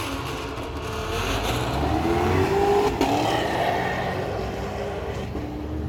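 Car engine revving under acceleration: its pitch climbs, drops abruptly about three seconds in, then climbs again more slowly.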